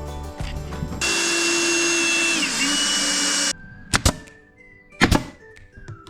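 Power tool running steadily for about two and a half seconds, its pitch dipping briefly under load before it cuts off abruptly, followed by sharp knocks about a second apart, with background music.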